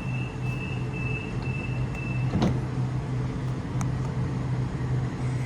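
Electric train at a station platform, giving a steady low hum with a high, pulsing whine that stops a little over two seconds in, and a couple of sharp clicks.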